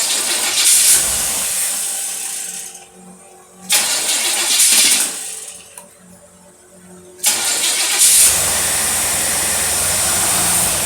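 Marine engine with a Holley two-barrel marine carburetor being revved three times from idle: a rev of about three seconds, a short blip near four seconds, and a long rev from about seven seconds. The revs show a dead spot in the carburetor.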